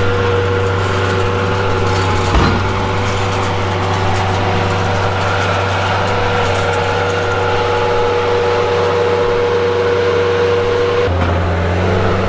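An engine running steadily at a constant speed, with a low hum and a steady whine over it. The note shifts about eleven seconds in.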